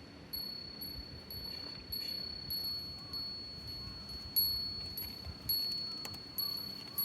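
A small wind chime struck over and over at uneven intervals, ringing one high, clear note that hangs on between strikes.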